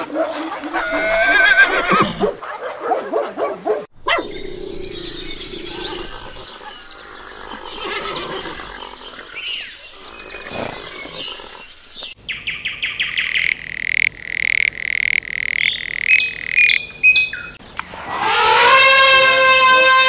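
Horse calls, whinnying with a wavering pitch, then a stretch of rustling noise and a rapid run of clicks over a steady high tone. Near the end, a long, loud elephant trumpet with many stacked tones.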